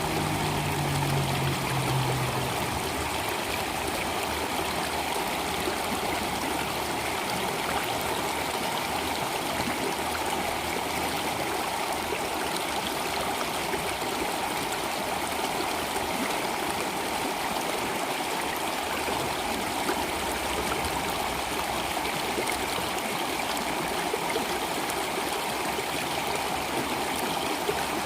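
Steady flowing stream water. A low held note of background piano fades out in the first couple of seconds.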